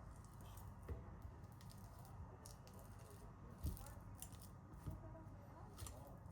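Faint kitchen handling sounds: a few soft knocks and clicks, the clearest about a second in and near the middle, with light scraping and rustling between them.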